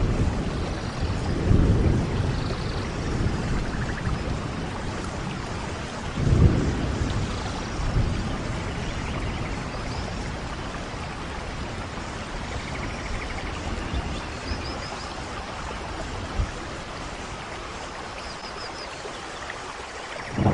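Steady rain hiss with low rolling thunder that swells about a second and a half in and again around six seconds in, then settles into a quieter, even rain.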